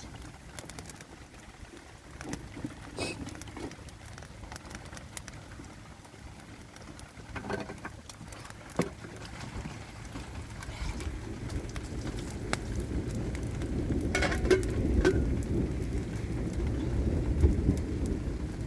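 Rain falling, with scattered sharp drip and tap sounds. A low rumble builds up and grows louder through the second half.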